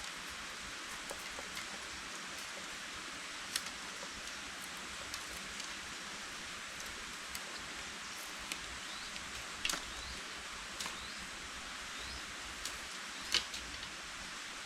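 Steady hiss of rain falling on forest foliage, with scattered sharp drip-like ticks, the loudest near the end, and a few faint short rising chirps in the middle.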